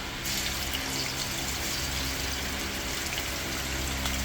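Seasoned squid pieces sizzling in hot oil in a pan. The sizzle starts abruptly about a third of a second in and then runs steadily over a low hum.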